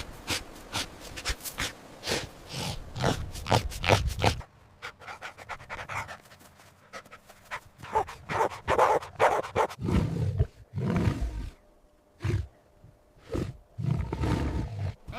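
A dog barking in short bursts, with panting between them.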